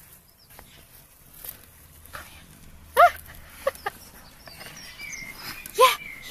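Male tortoise making short squeaky mating calls: one about three seconds in, a shorter one just after, and another near the end, each a brief call that bends in pitch.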